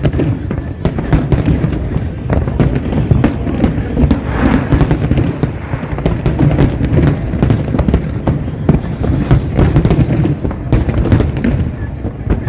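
Fireworks display: a dense, continuous barrage of bangs and crackles, several each second, over a deep rumble of bursts.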